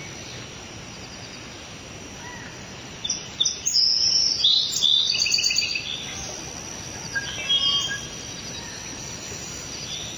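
Birds chirping and singing over a steady background hiss, with a burst of loud, quick chirps and trills from about three seconds in that tails off near the end.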